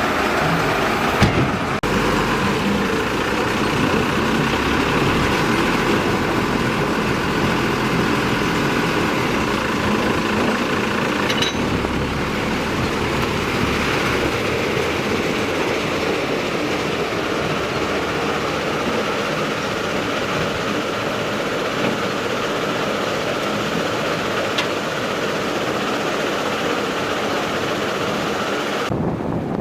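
Diesel engine of heavy earthmoving machinery running steadily, with a couple of faint knocks. The sound changes abruptly just before the end.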